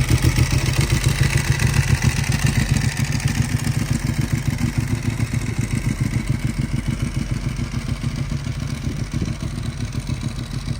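Ducati 1098R's L-twin engine idling through a Termignoni full racing exhaust, with a loud, lumpy, even pulse. It holds steady without revving and grows gradually quieter toward the end.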